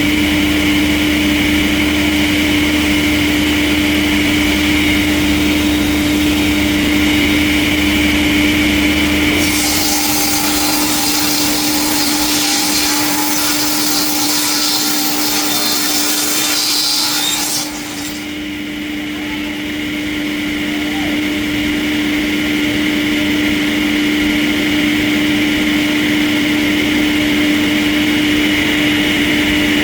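Sawmill machinery running with a steady hum. From about ten seconds in, a saw cutting through wood adds a bright, harsh noise for about eight seconds. The noise cuts off suddenly, and the machine runs on.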